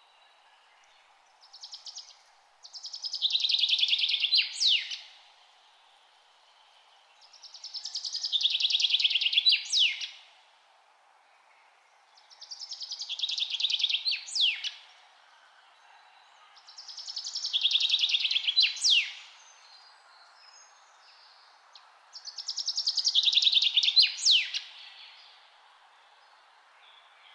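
A songbird repeating the same song five times, about every four and a half seconds. Each song is a rapid, buzzy trill that swells for about two seconds and ends in a sharp upward-sweeping note, over a faint steady hiss.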